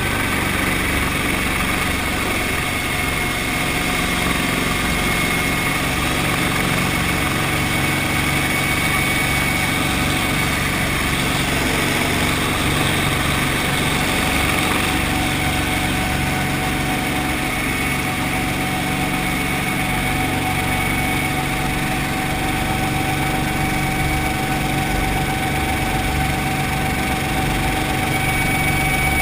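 Brantly B2B helicopter's four-cylinder Lycoming piston engine and rotor running steadily, with a thin steady whine above the engine note.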